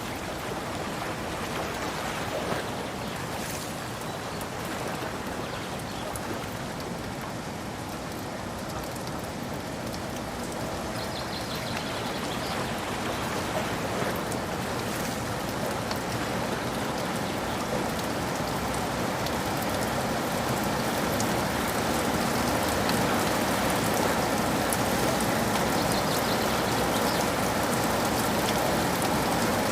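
Steady rain falling with pattering drops on surfaces, growing gradually heavier through the second half.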